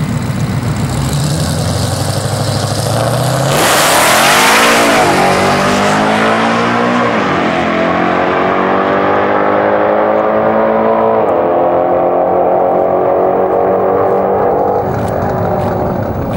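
Drag race car sitting at the line with its engine running, then launching hard about three and a half seconds in and accelerating down the strip, the engine pitch climbing and dropping twice at gear shifts.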